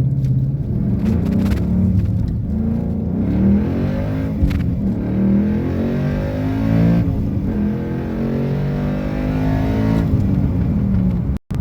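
Ford Mustang Boss 302's 5.0-litre V8 through SLP Loudmouth axle-back exhaust with the sidepipe resonators deleted, pulling hard and revving, its pitch climbing and dropping several times. The sound breaks off for a moment near the end.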